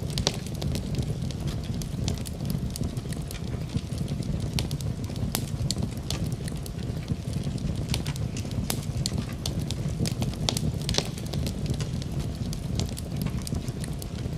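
Wood fire crackling, with many irregular sharp pops over a low steady rumble.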